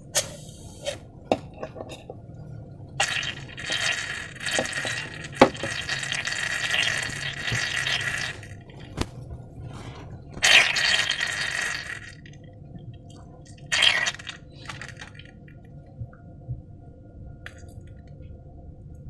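Slime being worked by hand: wet, sticky squishing and crackling in three stretches, the longest about five seconds, with scattered sharp clicks between them.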